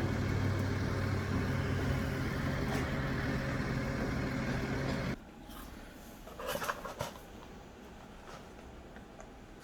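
A steady low machine hum that cuts off suddenly about five seconds in, followed by a few faint clicks and handling sounds.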